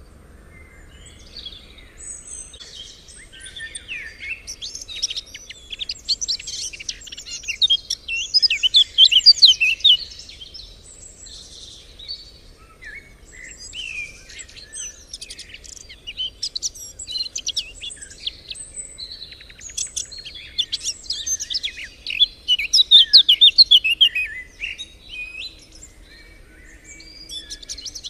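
Songbird song: two long runs of rapid, high chirping and trilling notes, the first building to its loudest about nine seconds in, the second after a short pause and loudest near the end.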